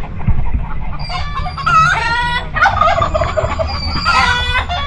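Farm fowl calling, several loud pitched calls one after another, overlapping at times.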